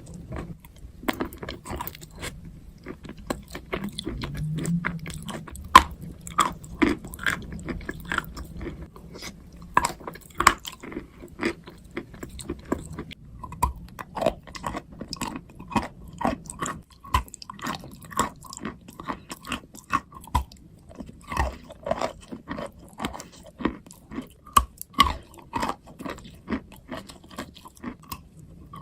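Close-up crunching of hard, chalky pieces being bitten and chewed: a dense, irregular run of sharp cracks, several a second.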